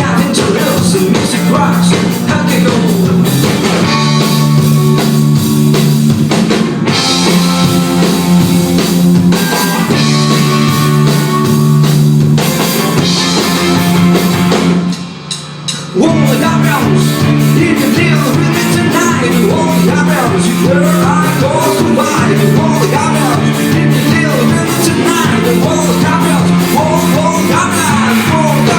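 Indie rock band playing live: drum kit, bass and guitars in a steady groove. About halfway through the band stops for about a second, then comes straight back in.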